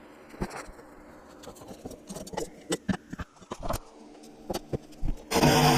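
Scattered light knocks and clicks of wood and tools being handled on a workbench, then near the end a sudden loud, even burst of machine noise starts and carries on.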